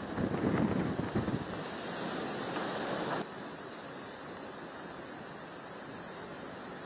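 Hurricane wind gusting hard against the microphone, then a steady rushing roar of wind and water. About three seconds in it cuts off abruptly to a quieter steady hiss.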